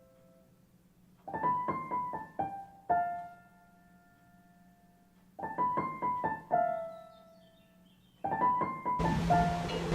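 Solo piano music in short phrases of quick notes, each ending on a held note, with quiet gaps between them. About nine seconds in a steady hiss joins the music.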